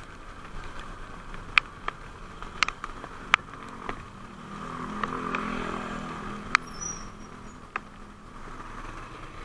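A motorcycle riding on the road: steady wind and road noise, with a low engine hum that swells in the middle and fades again. Several short sharp clicks stand out over it.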